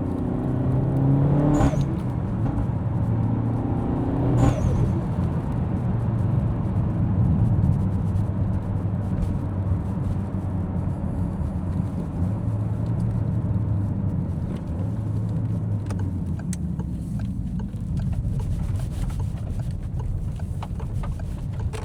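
Car driving on the road: the engine rises in pitch and drops back at two gear changes in the first five seconds, then runs steadily with road noise. A few faint, light ticks come in over the last few seconds.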